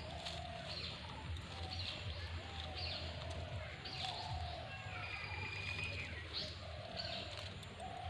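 Wild birds calling: repeated short low notes and short high chirps, with a fast trill about five seconds in, over a steady low hum.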